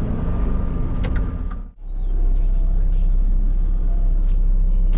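Semi-truck engine and road noise heard inside the cab, a steady low drone. The sound drops out for an instant a little under two seconds in, then the drone resumes.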